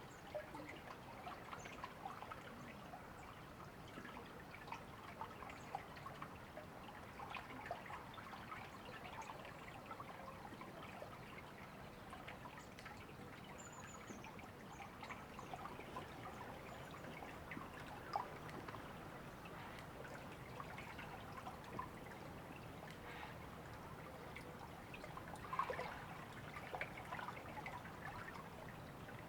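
River water trickling and babbling steadily, full of small droplet splashes.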